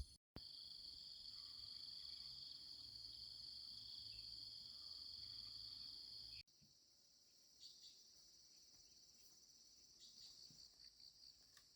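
Insects chirring in a faint, steady high-pitched drone. About six seconds in it cuts to a quieter chorus with short pulsed trills.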